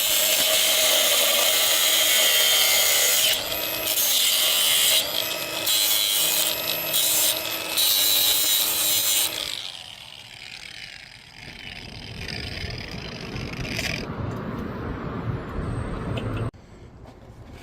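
A power tool running at full speed in several runs with short breaks between them, then stopping about nine seconds in. Quieter low rumbling and handling noise follow and cut off suddenly near the end.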